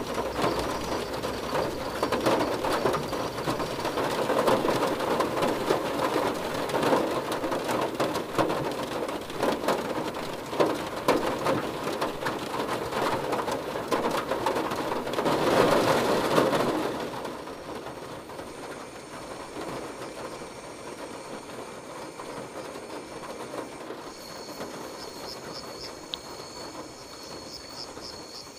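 Heavy rain falling on a hut roof, a dense noise full of small drop clicks. About seventeen seconds in it gives way to a quieter night with steady high-pitched insect calls and a pulsing chirp near the end.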